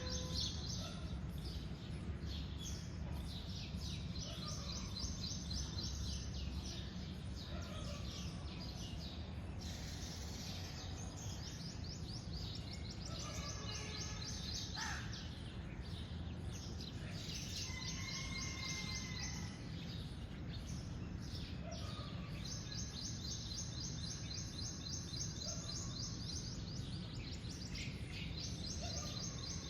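Birds calling outdoors: a fast, high trill that starts and stops every few seconds, with scattered shorter chirps between, over a steady low background rumble.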